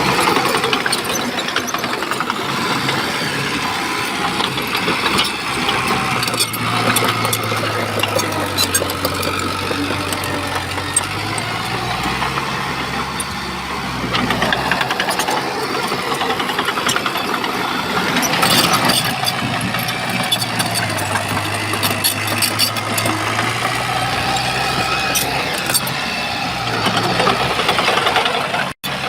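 Shantui bulldozer's diesel engine running under work, its pitch rising and falling as the load changes, with scattered metallic clanks and rattles. The sound cuts out for an instant near the end.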